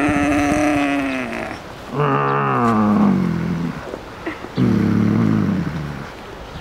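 An elephant calling three times, each long call sliding down in pitch and each one deeper than the last.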